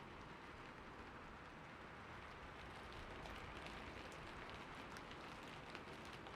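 Faint, steady rain with soft patter and scattered drips.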